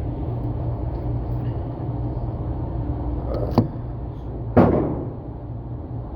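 Two sharp bangs about a second apart, the second louder with a short ringing tail, over a steady low rumble: gunfire on the range.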